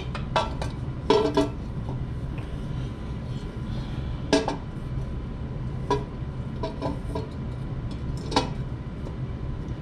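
Loose metal clinks and clanks as an exhaust header is handled and test-fitted against the engine bay, about seven separate sharp knocks with a brief ring, the loudest near the start, the middle and near the end. A steady low hum runs underneath.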